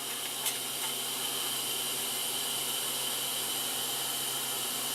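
Steady hiss with a low, even hum underneath, and a light click about half a second in.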